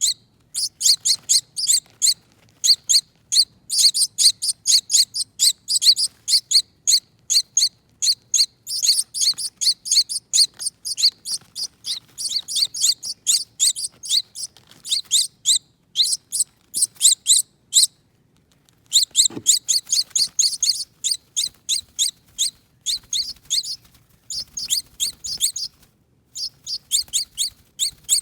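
Baby finches begging for food with rapid, insistent high-pitched chirps, several a second, pausing briefly twice.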